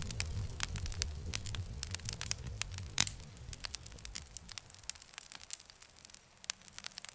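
Campfire crackling, with many sharp pops and snaps and one louder pop about three seconds in. A low rumble underneath dies away about halfway through.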